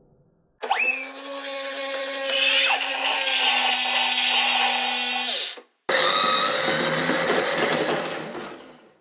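Battery-powered toy garbage truck's sound effects through its small speaker: a buzzing motor-like noise over a steady hum, opening with a quick rising whine and cut off after about five seconds. A second noisy passage follows at once and fades out near the end.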